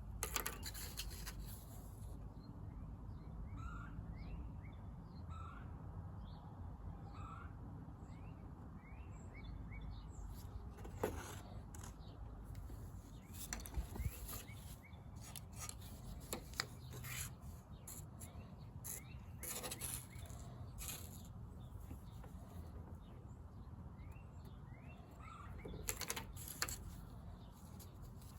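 Small birds chirping in the background, short rising chirps repeated at an even pace, over a low steady rumble. Scattered sharp clicks and knocks, strongest around the middle and near the end.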